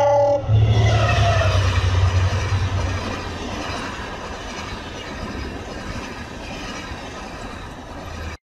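Diesel locomotive hauling a passenger train past: a horn blast ends about half a second in, then the engine's low rumble as the locomotive goes by. This eases after a few seconds into the steady rolling noise of the coaches, which cuts off suddenly at the end.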